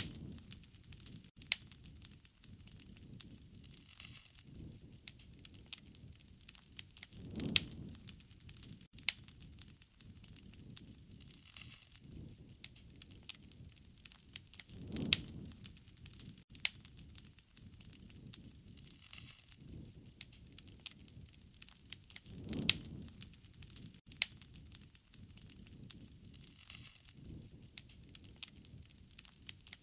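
Wood campfire crackling, with frequent sharp pops and snaps over a soft hiss. A low rush swells and fades about every seven and a half seconds.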